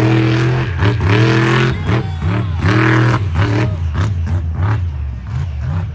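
Monster truck engine revving in repeated blips, its pitch rising and falling about once a second, easing off near the end.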